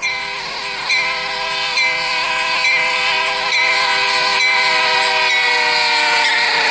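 Air horn of a BNSF GE C44-9W diesel locomotive sounding one long, loud multi-note chord, its pitch sagging near the end as it passes.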